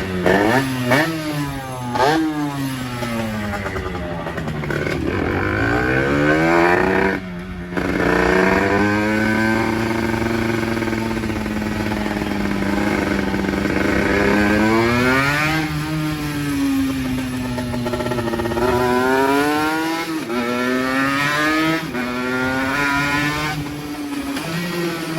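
50cc motorbike engine under way, its pitch rising as it accelerates and falling as the throttle eases, over and over, with a steadier stretch of cruising in the middle. The sound drops out briefly about seven seconds in.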